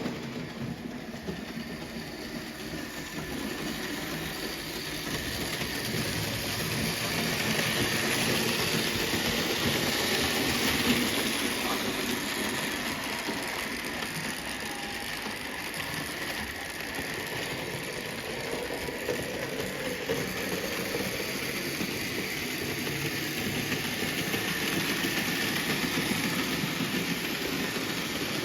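Vintage Märklin BR 038 (3099) HO-scale model steam locomotive with its coaches running on metal Märklin M track: a steady rattling running noise of motor and wheels on the rails. It gets louder twice, once about a third of the way in and again near the end, as the train comes close.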